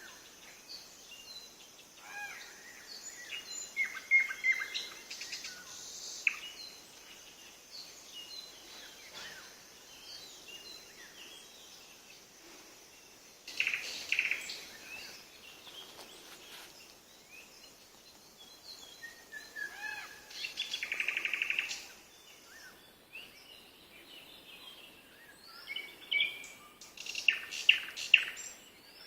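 Songbirds singing, with short chirps and whistled phrases coming in bursts and quieter gaps between. One bird gives a fast trill of rapidly repeated notes about two-thirds of the way through.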